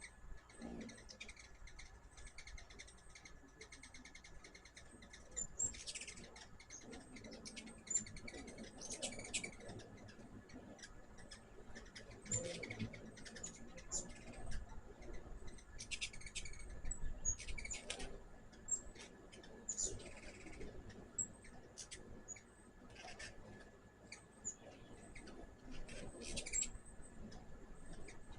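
Hummingbirds chipping and chattering, many short high calls scattered irregularly throughout.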